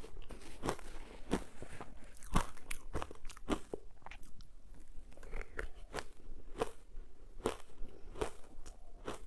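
Close-up crunching of ice being bitten and chewed: a run of sharp crunches, roughly one every half second to second, the loudest a little over two seconds in.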